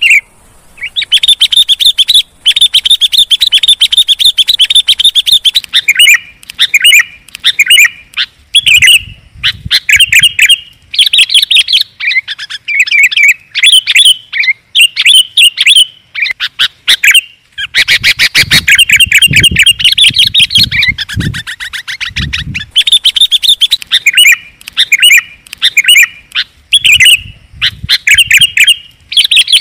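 Sooty-headed bulbul (kutilang) calling loudly and almost without pause. It gives fast runs of chattering chirps broken by short gaps, as on a bird-lure recording.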